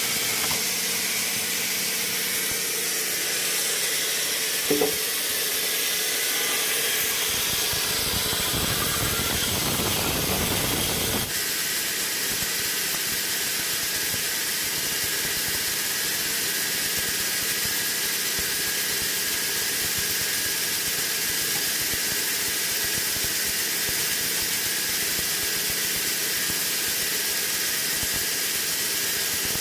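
Sawmill machinery running with a steady hissing noise. There is a brief squeal about five seconds in, and the sound shifts abruptly about eleven seconds in, then holds steady.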